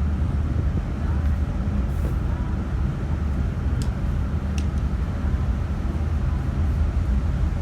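Steady low engine rumble on board a car ferry as it docks, with two faint clicks about four seconds in.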